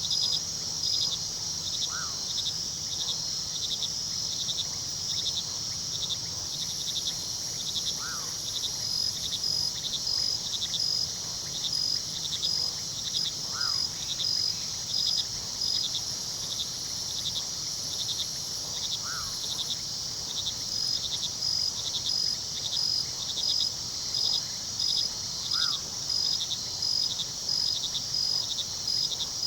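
Crickets chirping in a steady night chorus, a high continuous trill with evenly pulsed chirps, over a low rush of river water. A short falling call repeats five times, about every five to six seconds.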